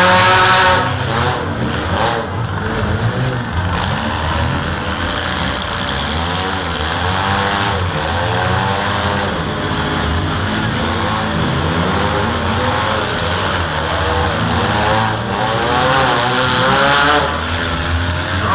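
Several demolition-derby compact cars' engines revving up and down at once. In the first second one engine is held at steady high revs.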